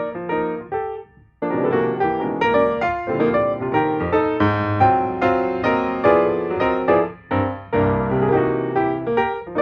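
Piano music: a quick run of struck notes that breaks off briefly a little after a second in, then carries on.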